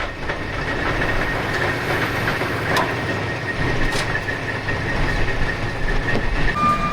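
Heavy truck engine running steadily with a held high-pitched whine over it. The whine cuts off near the end, just as a reversing beep starts.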